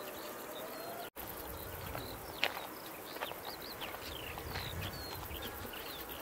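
Songbirds chirping, many short whistled notes sweeping up and down in pitch, with the sound cutting out for a moment about a second in.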